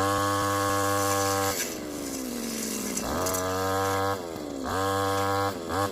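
Small petrol engine revving up to a steady high speed and holding it for a second or so, then dropping back to a lower speed, about three times in a row.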